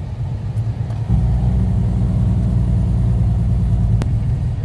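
Semi truck's diesel engine running, heard from inside the cab as a steady low rumble that grows louder about a second in. A single sharp click comes near the end.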